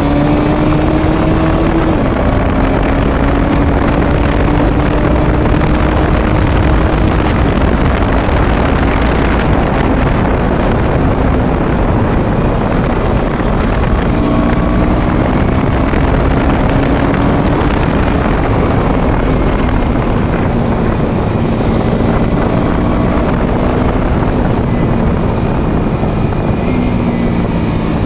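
Motorcycle engine running under way, its note climbing slowly and dropping back at gear changes, under heavy wind rush on the microphone.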